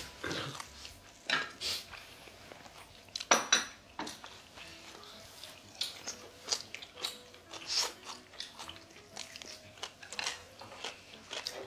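Close-miked chewing and biting on jokbal (braised pig's trotters), with scattered short clicks of chopsticks and dishes; the loudest click comes about three and a half seconds in.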